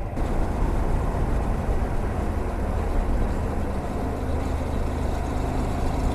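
125cc motorcycle engine running at a steady speed while riding, with wind noise rumbling over the microphone.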